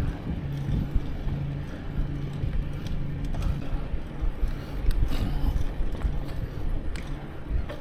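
Bicycle riding noise: a continuous low rumble of tyres and wind on the microphone, with a steady low hum and scattered short rattles and clicks.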